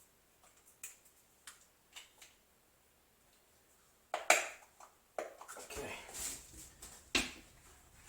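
Small objects handled at close range: light clicks and taps, a sharper knock about four seconds in, then rustling and another knock, as a glue bottle and knife are worked at the door.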